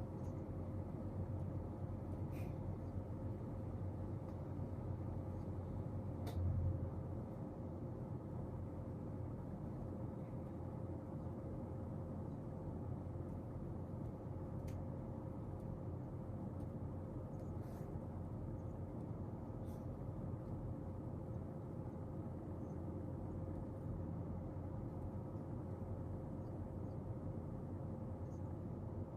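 Steady low room hum with a faint steady tone, broken by a handful of faint, scattered clicks and taps from desk work, and one brief low thump about six seconds in.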